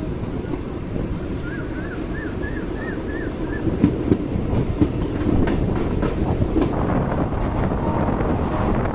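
Passenger train running, with a steady rumble and the clatter of wheels on the rails, and a few sharp knocks about four to five seconds in. A run of six quick chirps sounds about two to three seconds in.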